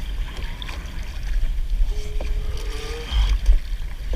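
Water sloshing and lapping around a kayak, with a heavy low rumble of wind on the microphone.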